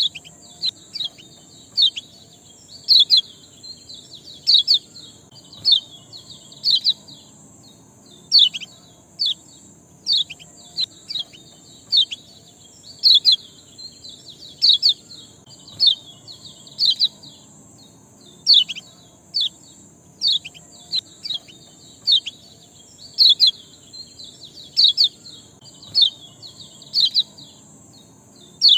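A small songbird calling continuously: short, sharp chirps that sweep downward in pitch, coming singly or in quick clusters of two or three, about one to two a second. A steady high hiss runs behind them.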